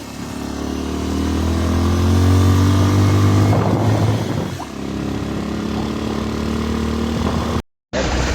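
Motorcycle engine running under way, its level building over the first two seconds and the engine note breaking briefly about four seconds in before settling steady again. All sound cuts out for a moment near the end.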